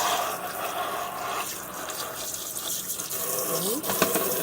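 Kitchen tap running water into a sink while parts of the coffee maker are rinsed, with a short knock near the end.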